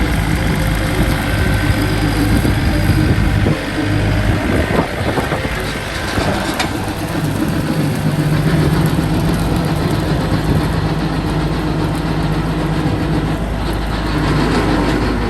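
Diesel tractor engine running steadily, dipping briefly about four seconds in and then holding a higher, steady speed from about seven seconds.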